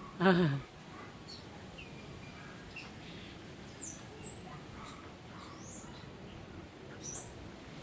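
A short, quavering, bleat-like animal call about a quarter second in, then scattered faint, high bird chirps and short whistles.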